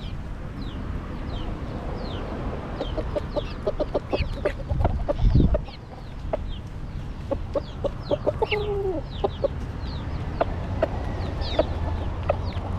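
Chickens clucking, with short high falling peeps repeated throughout and a run of quick low clucks in the middle. A brief low rumble about five seconds in is the loudest sound.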